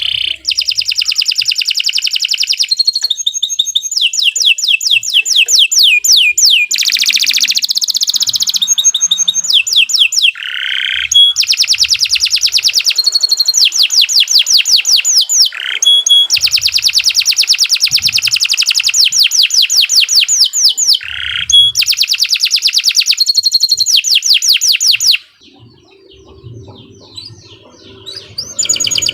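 Domestic canary singing a long, continuous song of fast rolling trills and rapidly repeated high notes, broken by a pause of about three seconds near the end before it starts singing again.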